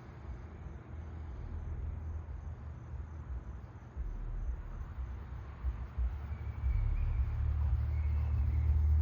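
A low rumble that grows steadily louder from about four seconds in.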